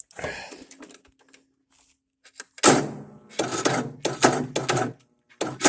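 A tractor engine being cranked by its starter motor, turning over in rhythmic pulses for about two seconds and again briefly near the end without catching.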